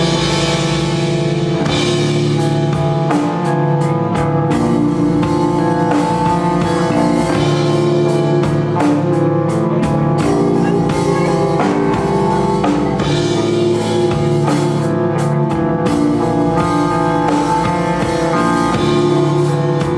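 Rock band playing live: drum kit and guitar, loud and continuous, with sustained held chords over a steady beat.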